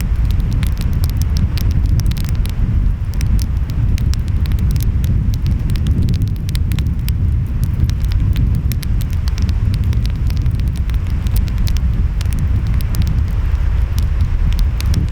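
Wood fire crackling, with many small sharp pops, over a steady low rumble of ocean waves and wind.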